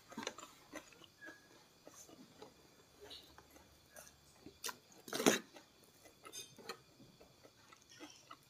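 Close-up eating sounds of a person eating rice and fish by hand: soft, scattered chewing clicks, with one louder click about five seconds in.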